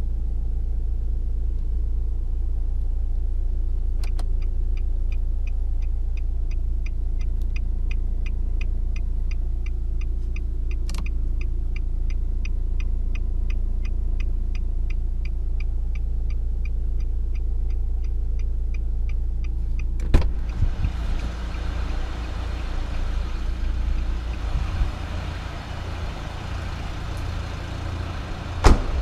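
Nissan Juke's 1.5 dCi four-cylinder turbodiesel idling with a steady low rumble. For a stretch in the middle there is an even ticking, about two to three a second. About two-thirds of the way in a sharp click comes, after which the sound turns broader and noisier, and another sharp click comes near the end.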